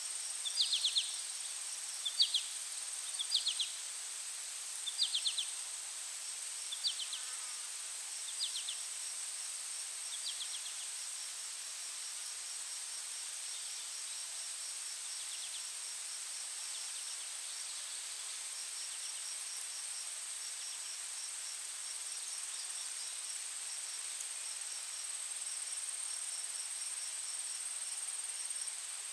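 Insect ambience: a steady high-pitched buzzing drone with crickets chirping in rapid pulsing runs throughout. A bird repeats a short call about every second and a half over the first ten seconds or so, growing fainter.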